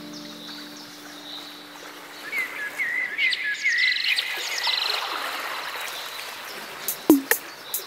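Small birds chirping: a quick run of short rising-and-falling chirps about two seconds in. Near the end come a few sharp clicking calls that sweep downward.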